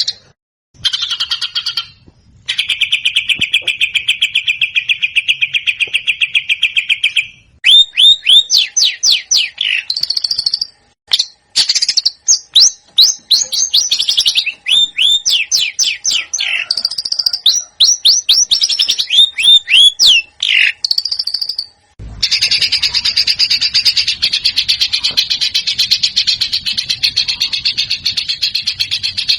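Recorded songbird song in the rapid-fire 'tembakan' style, several recordings spliced together: a fast even trill, then runs of sharp downward-sliding whistled notes with short gaps, and from about two-thirds of the way in a dense unbroken chatter over a low background rumble.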